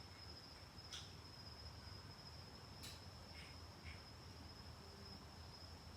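Near silence: a faint, steady high-pitched whine, with a few faint light clicks about a second in and again around three seconds in.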